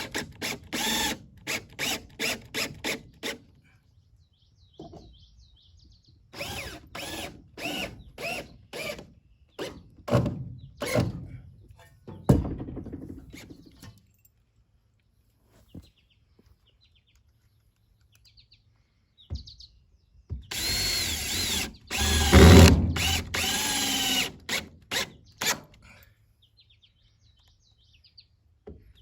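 Cordless power drill driving screws into wooden boards, in quick trigger bursts, then a longer run of several seconds with the motor speeding up and slowing down.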